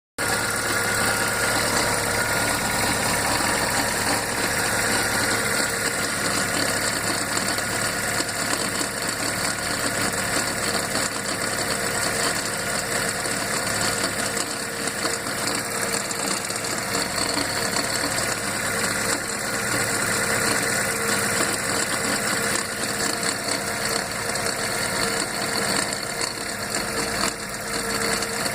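Fiat Uno Mille Fire 1.0 four-cylinder engine running steadily, with a constant bearing-like noise from the gearbox mixed in. This is a gearbox noise that is present while the gearbox is cold and goes away once it warms up.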